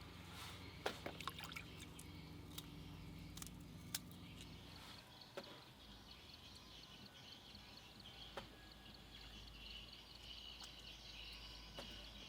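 Faint outdoor background with scattered light clicks and knocks; about five seconds in a faint, evenly pulsing high-pitched chirring begins.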